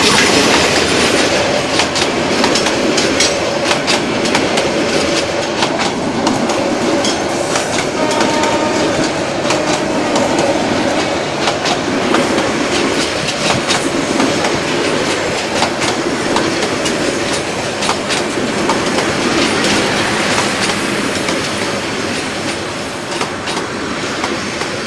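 Bangladesh Railway passenger coaches rolling past close by, their steel wheels clacking over the rail joints in an irregular run of clicks over a loud, steady rumble that eases slightly near the end.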